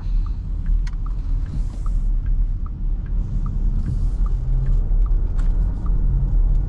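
Steady low road and drivetrain rumble heard inside the cabin of a 2024 Porsche Cayenne driving on wet roads, with light ticks about twice a second.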